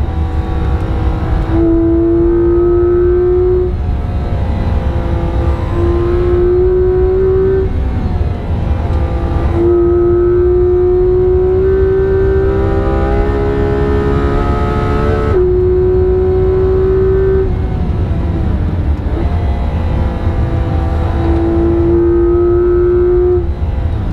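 Porsche 991.2 GT3 RS's naturally aspirated 4.0-litre flat-six, heard from inside the cabin, pulling hard at full throttle with its pitch climbing through about five long stretches, broken by lifts for corners and a quick gear change, over steady road and tyre noise.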